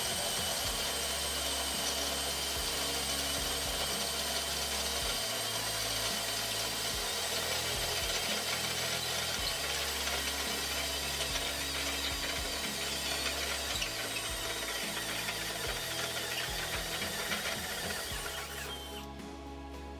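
Cordless drill driver running steadily under load, a continuous mechanical whir and rattle. Near the end the drill noise drops away and music carries on.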